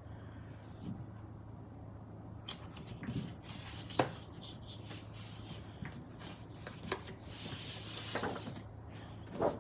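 Paper and card being handled on a craft desk: scattered light taps and clicks, a brief rustle about eight seconds in, and a knock near the end, over a steady low electrical hum.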